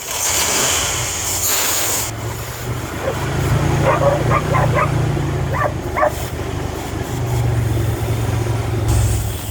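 Dodge Ram pickup engine running and revving on brake cleaner sprayed into the throttle body, with an aerosol hiss in the first two seconds. It runs only on the cleaner because the bad fuel pump sends no fuel to the rail. A dog barks several times in the middle.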